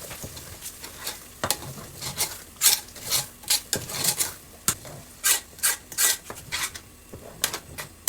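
A utensil scraping and stirring in a cooking pot of soup, in irregular sharp strokes about two a second.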